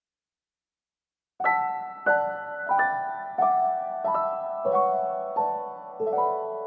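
Piano music: silence for about the first second and a half, then a slow run of struck piano chords, about three every two seconds, each fading before the next.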